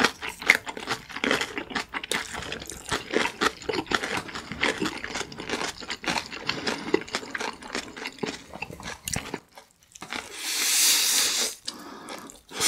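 Close-miked chewing of kimchi-wrapped noodle rolls: the napa cabbage kimchi crunches, with wet mouth clicks. The chewing pauses briefly about nine seconds in, and a second or so of hissing noise follows.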